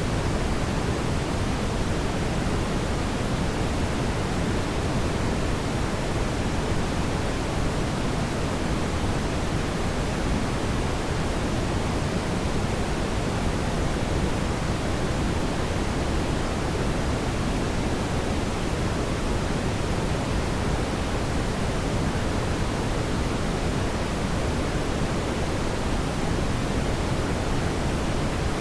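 Fireplace ambience: a steady, deep rushing noise that never changes, with no distinct crackles or pops.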